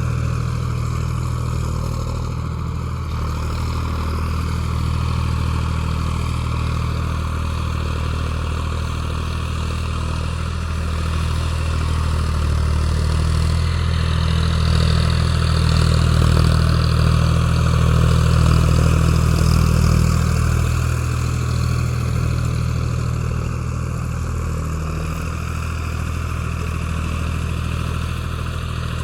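Tractor engine running steadily, a little louder for a few seconds around the middle, then settling back.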